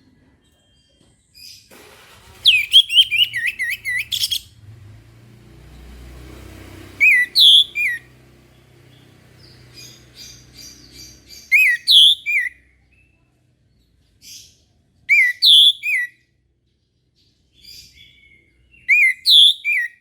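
Orange-headed thrush singing: a quick run of sweeping whistled notes, then four short loud phrases spaced a few seconds apart.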